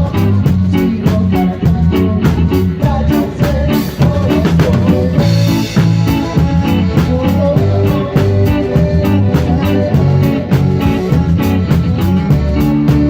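Live band playing a song: electric guitar, bass and drum kit, with an even ticking pulse on the cymbals and a brighter cymbal wash about five seconds in.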